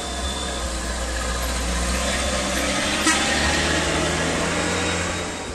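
A heavy vehicle's engine running loudly and building in level, with a single sharp click about three seconds in, then easing off near the end.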